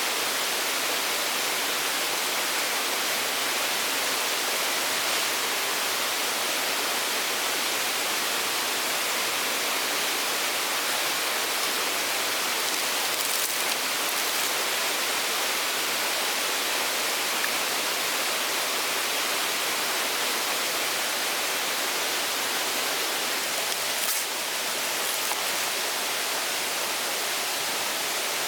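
Steady, even hiss with no breaks, strongest in the high range, with a couple of faint clicks.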